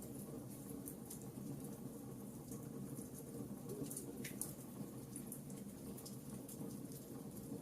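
Wood campfire burning: a steady low rush of flame with irregular sharp crackles and pops.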